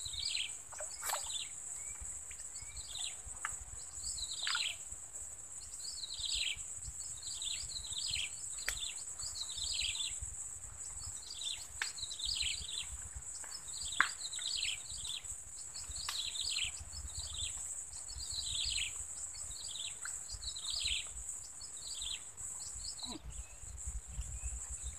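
Birds calling over and over with short, falling chirps, over a steady high-pitched drone and a low rumble. A single sharp click about halfway through.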